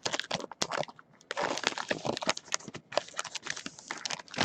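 Trading card packaging being handled and opened: a busy run of crinkles, clicks and taps, with a brief pause about a second in.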